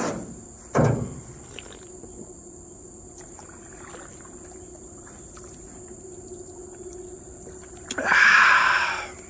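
Crickets chirring steadily, with two short knocks in the first second. Near the end a beer can is cracked open: a sharp click, then a fizzing hiss lasting about a second.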